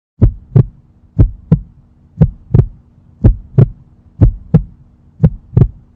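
Heartbeat sound effect: six lub-dub double thumps, about one pair a second, over a faint steady hum.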